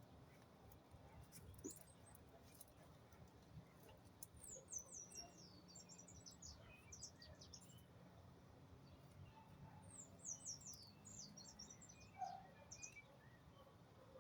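Faint birdsong: quick runs of high chirps, each note sliding downward, in two bursts of a few seconds each, one starting about four seconds in and one about ten seconds in.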